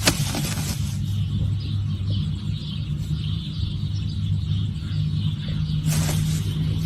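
Car engine idling, a steady low hum heard from inside the cabin, with a brief rustling rush at the start and again near the end.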